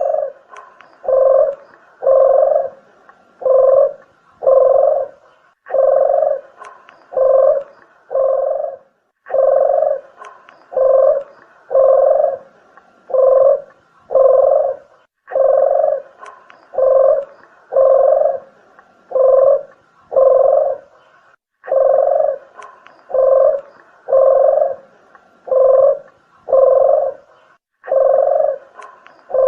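Red collared dove (puter geni) cooing, played as a bird-lure recording: low, even coos in runs of six to nine, each run followed by a short break, repeating over and over.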